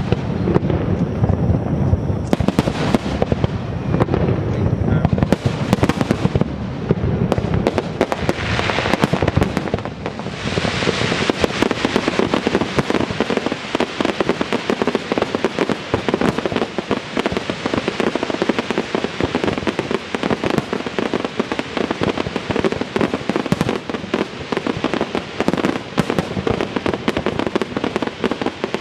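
Aerial fireworks bursting without pause. Deep booms dominate at first, and from about ten seconds in a dense, rapid crackling takes over.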